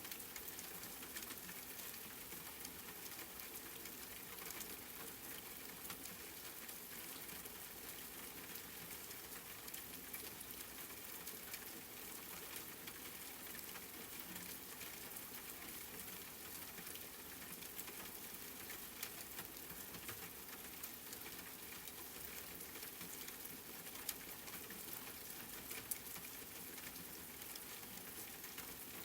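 Steady rain falling, an even hiss with many small drop ticks pattering on a surface.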